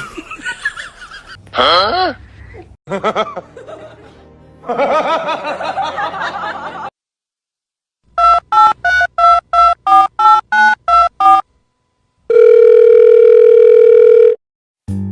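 About a dozen short electronic beeps at changing pitches, like telephone keypad tones, are followed by one steady tone held for about two seconds. Before them come several seconds of mixed, voice-like sounds that glide in pitch.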